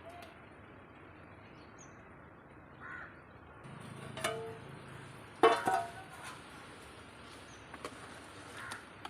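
A few sharp clinks and knocks over a steady low background noise. The loudest comes about five and a half seconds in, with a brief ringing tone.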